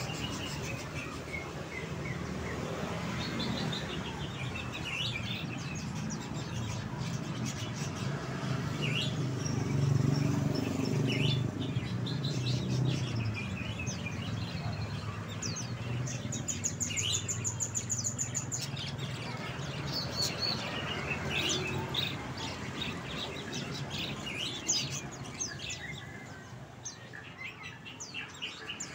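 Songbirds chirping and twittering in many short high calls, with a fast high trill about sixteen seconds in. A low background rumble runs underneath, loudest around ten seconds in.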